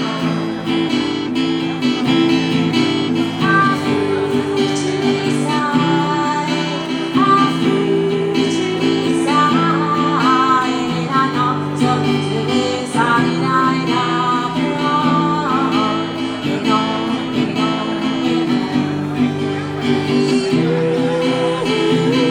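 Live acoustic guitar music: strummed chords with a melody line moving above them.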